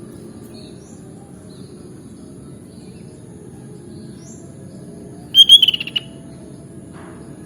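Sooty-headed bulbul giving one short, loud burst of rapid, bubbling call notes about five and a half seconds in, over a steady low background hiss with a few faint high chirps.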